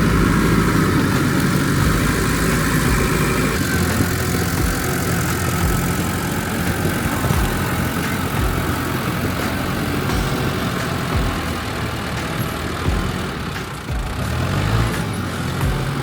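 Tractor engine running steadily under load as the tractor climbs a steep slope, its note rising briefly near the end.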